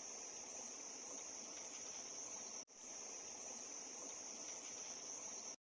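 Steady high-pitched drone of forest insects, one unbroken shrill tone. It drops out for an instant about two and a half seconds in and stops abruptly just before the end.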